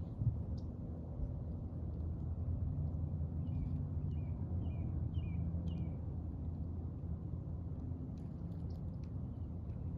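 Steady low outdoor rumble, with a bird chirping a quick run of about six short, falling notes between about three and six seconds in.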